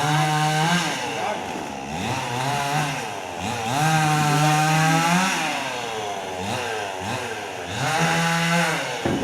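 Chainsaw engine revving: it climbs to high speed and holds there three times, near the start, about four seconds in and about eight seconds in, with its pitch sliding down and back up in between.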